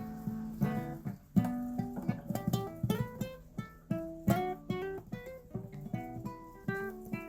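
Acoustic guitar playing an instrumental passage of plucked notes and chords between sung lines of a song.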